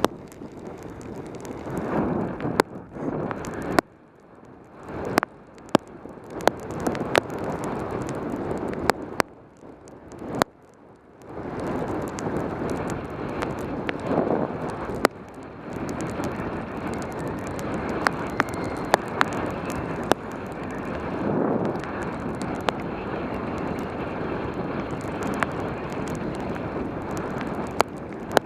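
Wind rushing over a helmet-mounted camera on a fast bicycle descent in rain, with scattered sharp ticks on top. The rush drops away briefly about four seconds in and again around ten seconds in, then comes back.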